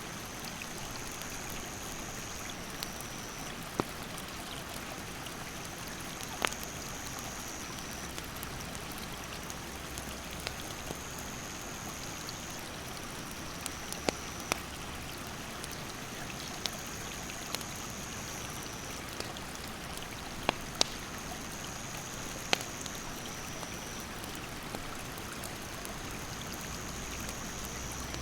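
Steady rush of a mountain stream, with a wood campfire giving scattered sharp crackles and pops. A high, steady insect call comes in stretches of a couple of seconds, dropping slightly in pitch at the end of each and repeating about every five seconds.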